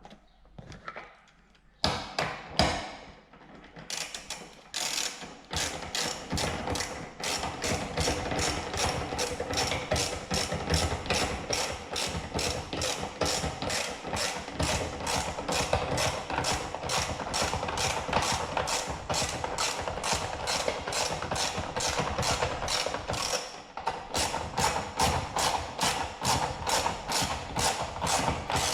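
Hand ratchet wrench clicking steadily, about three clicks a second, as a fastener is run down; it stops briefly about 24 seconds in, then carries on. A few knocks and clatters come before the ratcheting starts.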